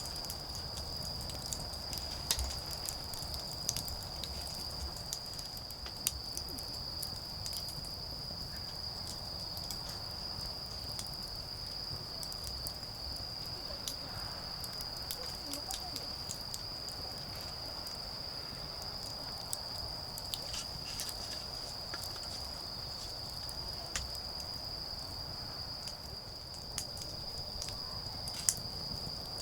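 Autumn insects calling in a continuous high, steady chirr, with a wood fire crackling and snapping in scattered sharp pops.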